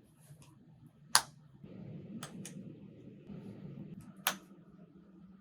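Snap fasteners on the mattress pad's corner straps clicking shut onto the playard's base: two sharp snaps, about a second in and about four seconds in, with fainter clicks and fabric rustling between them.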